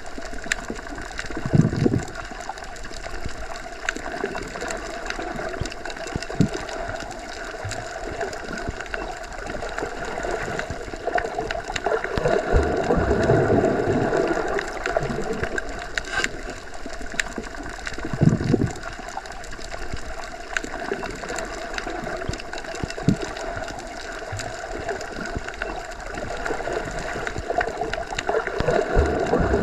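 Underwater ambience: a continuous muffled rumble and hiss of water heard while submerged, swelling in surges every several seconds, with scattered faint clicks.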